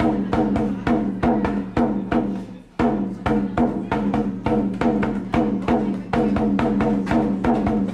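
Hand drum beaten with bare hands in a fast, driving rhythm of about five strokes a second, with a brief break nearly three seconds in.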